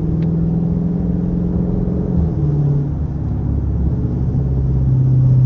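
Straight-piped Dodge Charger R/T's V8 exhaust running at low, steady revs, heard from inside the car. The note shifts about two seconds in and gets louder near the end as the car picks up a little speed.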